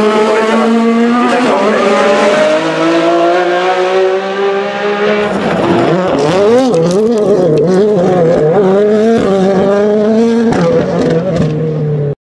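Formula 1 cars' 1.6-litre turbocharged V6 hybrid engines at high revs, their pitch gliding slowly at first. From about five seconds in the pitch swings rapidly up and down as the revs rise and fall. The sound cuts off abruptly near the end.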